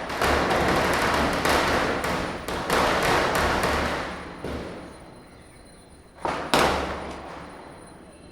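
Diwali firecrackers bursting: a rapid run of bangs over the first four seconds or so that fades away, then two loud bangs close together about six and a half seconds in.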